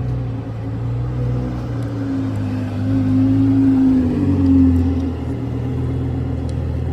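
A car engine running steadily, its pitch rising a little about three seconds in and easing back down after about five seconds.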